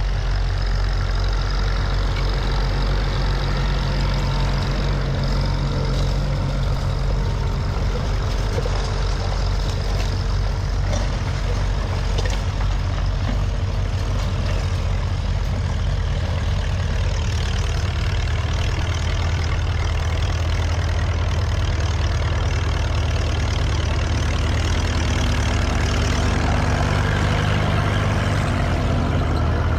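Tractor engine running steadily, a deep continuous engine note that shifts slightly in pitch partway through and again near the end.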